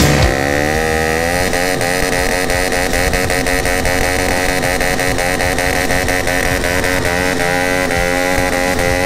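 Stunt motorcycle engine revving up over the first second or so, then held at high revs with its pitch wavering as the throttle is worked.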